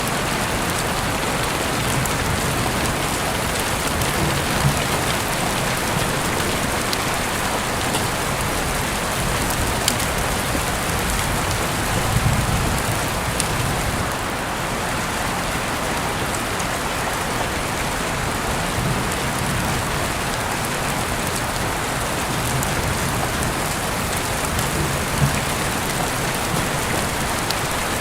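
Heavy rain falling steadily, heard through an open window, with scattered sharper drop ticks over the even downpour.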